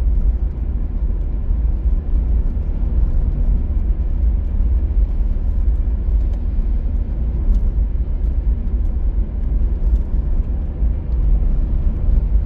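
Steady low road rumble of a car being driven at an even pace, with a few faint scattered ticks.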